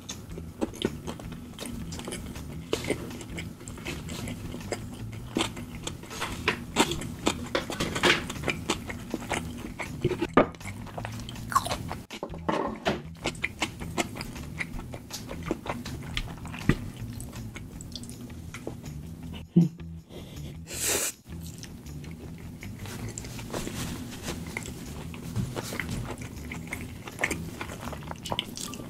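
Close-up mouth sounds of chewing soft, chewy tteokbokki rice cakes and noodles in thick spicy sauce: many small wet clicks and smacks, with a brief louder noisy sound about two-thirds of the way through.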